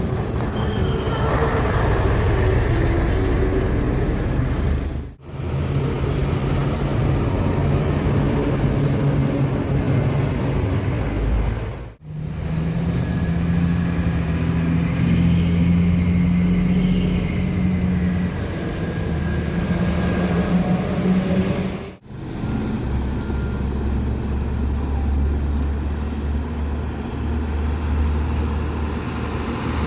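Heavy trucks driving past on a road, their engines running with a steady low hum over traffic noise, in four short clips joined back to back with abrupt cuts.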